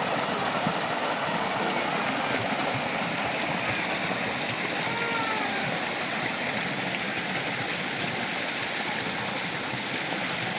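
River water flowing and babbling in a steady, even rush.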